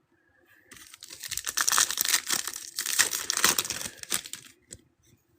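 A foil trading-card pack wrapper being torn open and crinkled by hand: dense crackling rustle starting about a second in and stopping shortly before the end.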